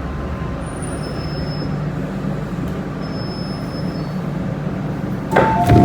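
Metro-Cammell electric multiple unit train running, a steady rumble with faint thin high squeals now and then. Near the end a knock and a two-note descending chime sound.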